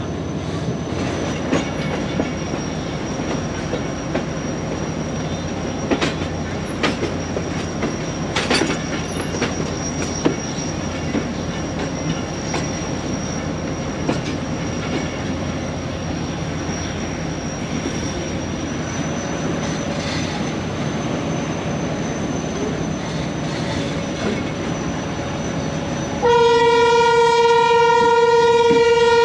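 A train running past with its wheels knocking over rail joints and a thin, steady high squeal. Near the end a locomotive horn starts up, one loud, steady blast.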